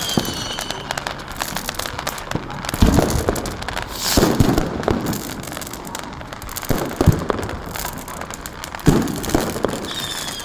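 Fireworks and firecrackers going off in a continuous crackle, with louder bangs about four times. A short falling whistle comes near the end.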